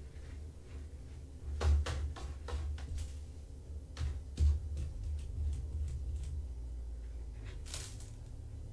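Scattered light knocks and rustles, loudest about two seconds in and again around four and a half seconds, over a steady low hum.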